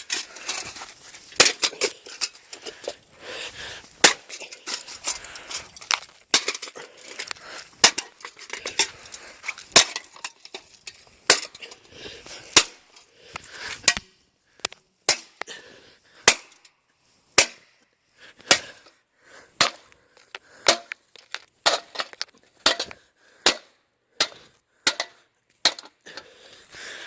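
An old ceiling fan being smashed: a long run of sharp cracks and bangs, about one to two a second, with rattling and clatter between them in the first half and cleaner, single cracks in the second half.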